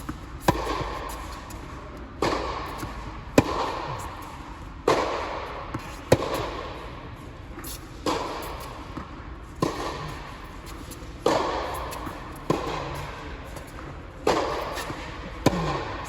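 Tennis rally: ball struck by racquets and bouncing on the court, a sharp pop every second or so, each with an echoing tail.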